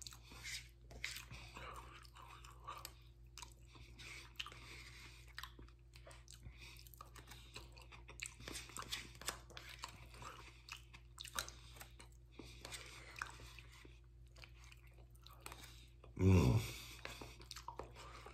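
A man chewing spoonfuls of potato salad, with many small irregular clicks of mouth and spoon. About sixteen seconds in, a short vocal sound falling steeply in pitch, the loudest sound here.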